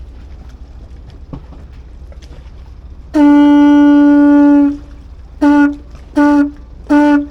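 A boat's horn sounding one long blast, then three short blasts.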